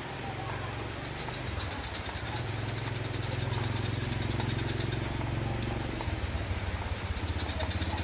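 Steady rain falling, with a low rumble that swells through the middle. A rapid, high pulsing animal trill runs over it at the start and again near the end.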